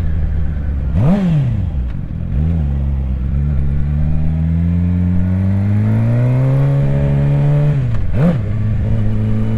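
Suzuki GSX-R 750's inline-four engine running under way, its pitch climbing slowly over several seconds as it pulls through the revs, with two quick sharp rev spikes, about a second in and again near the end.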